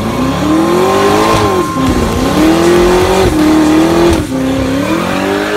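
Twin-turbo Ford Coyote V8 revving during a burnout, over the hiss of spinning tyres. Its pitch wavers up and down, with dips about two seconds in and again a little after four seconds.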